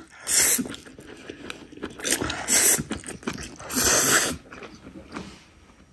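Close-up eating sounds: chewing a mouthful of raw trout sashimi and spicy stir-fried noodles, with three louder noisy bursts.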